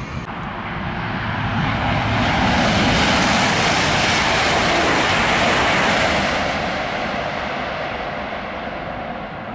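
ICE 3 high-speed electric train passing close by, its rushing noise swelling to a peak about two seconds in, holding for a few seconds, then fading away.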